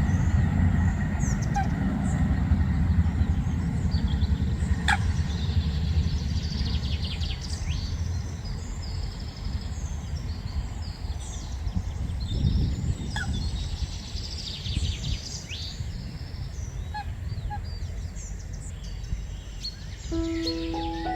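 Birds calling: many short chirps and calls over a steady low rumble. Music starts near the end.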